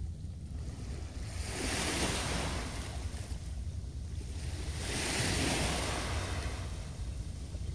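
Small waves breaking on the shore twice, each a rising and falling rush of surf, over steady wind rumbling on the microphone.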